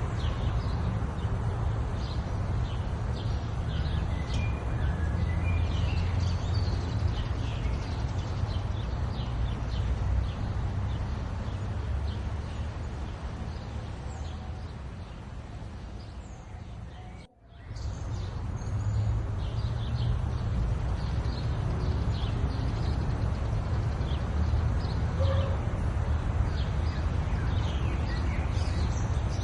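Small birds chirping and calling over a steady low rumble. The sound fades down and drops out briefly about two-thirds of the way through, then resumes.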